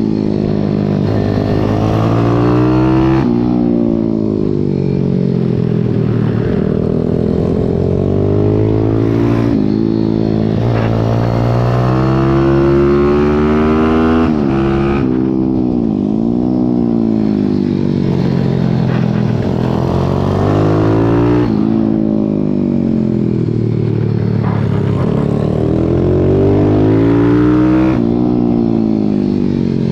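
Pit bike's single-cylinder four-stroke engine heard from onboard at racing speed. It revs up again and again through the gears, then drops sharply off the throttle for the corners, over a haze of wind noise on the mount.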